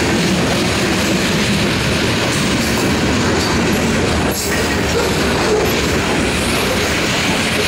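Freight train of covered hopper cars rolling past at close range: steel wheels running on the rails in a steady, loud rumble and clatter.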